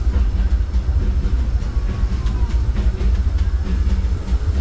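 Disneyland Railroad train rolling along the track, heard from aboard a passenger car: a steady heavy low rumble with scattered wheel clicks.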